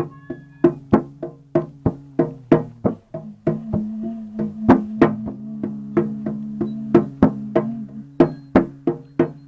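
Rhythmic instrumental music: sharp percussive strikes about three times a second over a steady low drone, with higher overtone tones appearing and fading.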